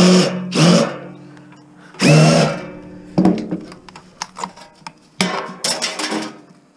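Cordless drill-driver run in short bursts, backing out screws: a few longer runs of motor whine, then a quick string of brief triggers near the end.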